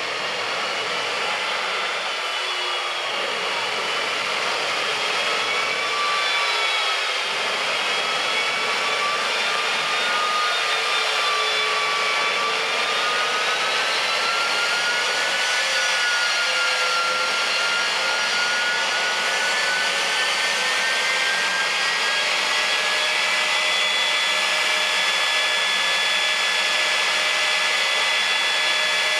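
Drag-racing jet car's turbine engine running at a steady throttle: a loud even rush with a whine whose pitch wavers slowly, then holds steady near the end.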